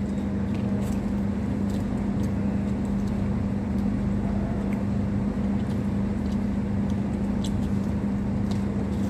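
Steady machine hum with a constant low tone, and a few faint light clicks scattered through it.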